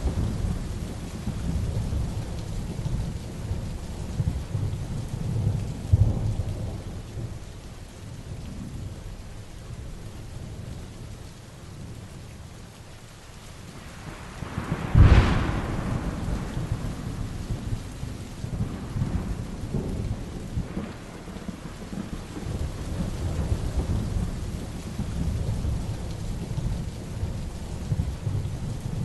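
Heavy rain with thunder rumbling low and continuously. About halfway through, a sharp close thunderclap cracks out, the loudest moment, and rolls off into rumbling.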